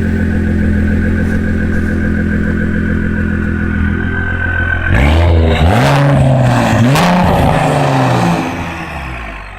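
Car engine idling steadily, then revved in three quick blips, each climbing and falling back, before settling and fading near the end.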